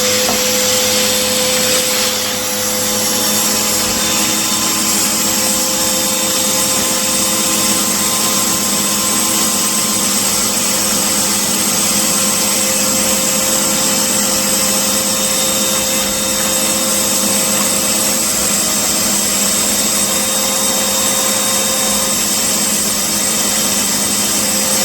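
Household vacuum cleaner (hoover) running steadily with a constant motor whine, its hose on the valve of a vacuum storage bag, drawing the air out of the bag.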